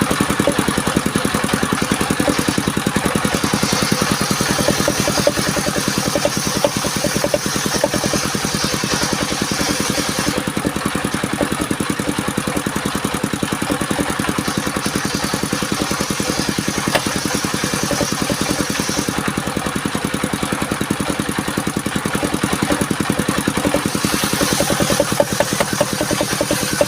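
Engine of a mobile circular sawmill running steadily, with a higher hiss that comes and goes three times as the circular blade cuts through a bayur log.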